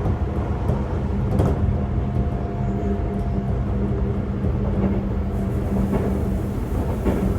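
Running sound of a Sotetsu 8000-series electric train heard from inside a motor car: a steady rumble with a constant motor hum and a held tone, and a few clicks as the wheels pass over rail joints.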